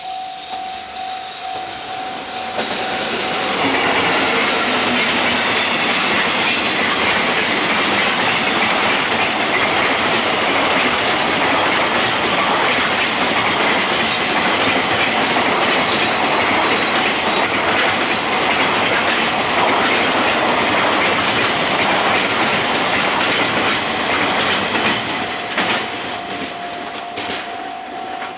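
A JR Freight EF65 electric locomotive draws a long train of loaded container wagons past: a loud, steady rumble of wheels on rail with clickety-clack over the rail joints and a thin, high wheel squeal. The noise builds about three seconds in, then falls away near the end with a few sharp clacks as the last wagons go by. A steady tone is heard while the train is quieter, at the start and again at the end.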